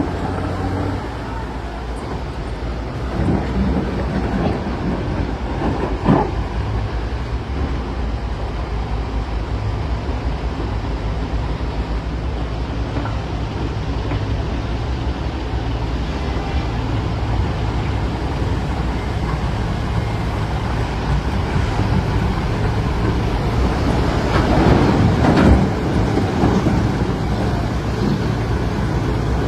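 Heavy diesel earthmoving machinery running steadily with a low drone, as a CAT 966D wheel loader works at loading rock. There is a sharp knock about six seconds in, and a louder spell of rattling and clatter near the end.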